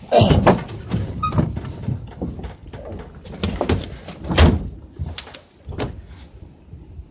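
A heavy refrigerator being shoved and bumped onto a truck bed: a series of knocks and scrapes, with the loudest thump about four and a half seconds in.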